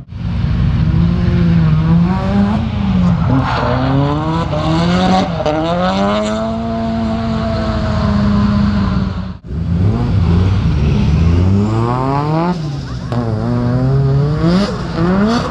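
Drift car engine revving hard, its pitch rising and falling over and over as the throttle is worked. The sound cuts off abruptly about nine seconds in and resumes with another car revving the same way.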